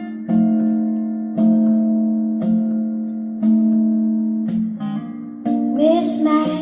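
Instrumental song intro: guitar chords struck about once a second, each left to ring. A singing voice comes in near the end.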